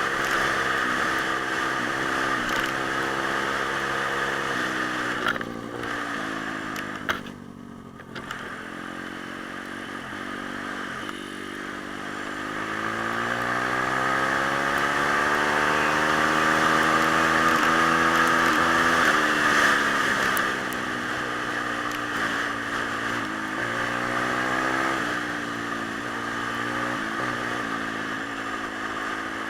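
Small single-cylinder pit bike engine being ridden: its pitch climbs and drops again and again with the throttle and gear changes, with a long climb to high revs in the middle before easing off, over a steady rushing noise.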